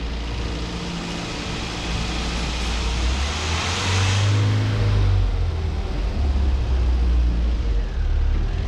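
A car engine running, growing louder after about two seconds, with a surge of noise about four to five seconds in.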